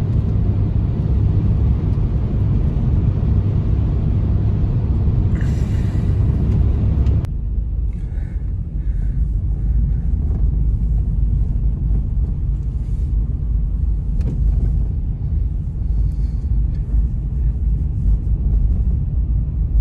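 Strong blizzard wind blowing over the microphone: a steady, deep noise. About seven seconds in, the higher hiss drops away abruptly, leaving mostly the low wind noise with a few faint ticks.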